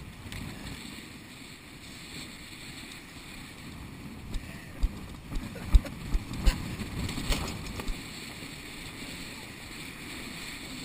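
Steady rush of wind and water on a Nacra 5.2 beach catamaran under sail. In the middle comes a run of about eight sharp low thumps over some four seconds.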